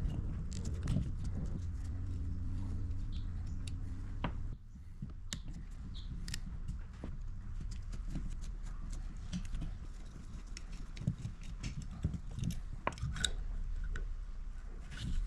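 Irregular clicks and light knocks of hand tools working on a car's carburettor, over a steady low hum that stops about four and a half seconds in.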